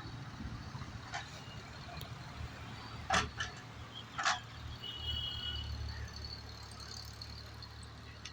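Mini excavator's diesel engine running steadily while it digs, swelling about five seconds in. Sharp metal clanks come about three and four seconds in, with a fainter one near the start.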